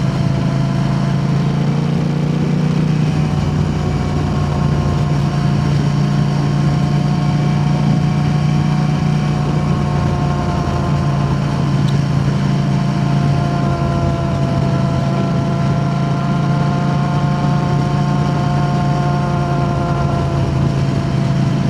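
KTM 890 Adventure R's parallel-twin engine through an Arrow aftermarket exhaust, under way at a steady cruising speed: a constant drone with no rise or fall in revs.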